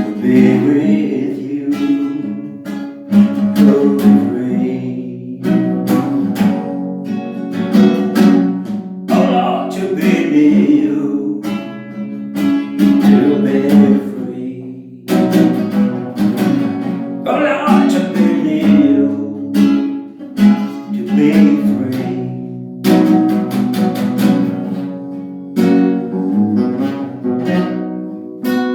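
Acoustic guitar strummed in a steady rhythm, with a voice singing a slow melody over it.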